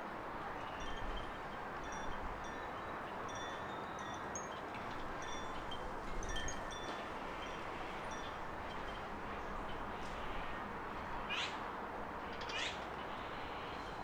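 Garden birds chirping over a steady background hiss, with short high calls repeating throughout and two louder sweeping calls near the end.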